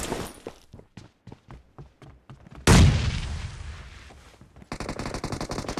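Video game gunfire: a few scattered shots, then a loud boom a little under three seconds in that dies away over about two seconds, then rapid automatic fire from nearly five seconds in.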